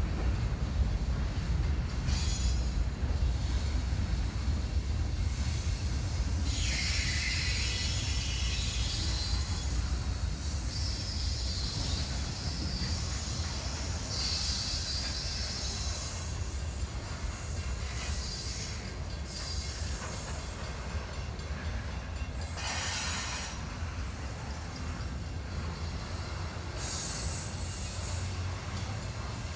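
CSX freight train rolling past with a steady low rumble from the locomotives and cars. High-pitched wheel squeal comes and goes several times, strongest about a third of the way in and again past the middle.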